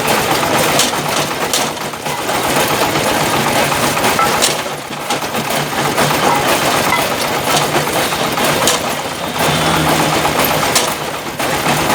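Engine-driven brick breaking machine running loud: a steady engine drone under a dense, gritty clatter of brick being crushed, with scattered sharp knocks.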